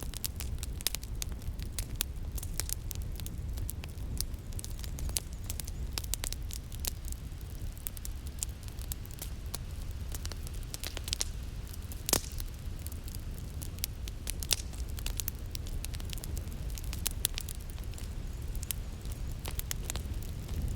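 Wood fire crackling in a fireplace: irregular sharp pops and snaps over a steady low rumble, the loudest snap about twelve seconds in.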